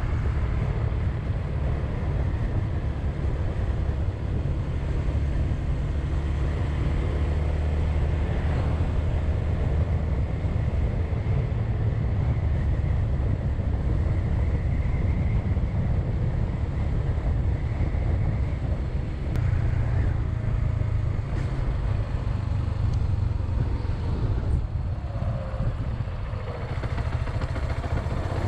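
Suzuki Grasstracker Big Boy's single-cylinder engine running steadily under way, heard from on board the moving motorcycle. The engine note changes about twenty seconds in and again a few seconds later.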